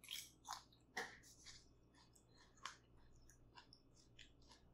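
Close-up mouth sounds of someone eating a mouthful of hot pot: wet chewing clicks and lip smacks, sharpest in the first second or so, then smaller and scattered.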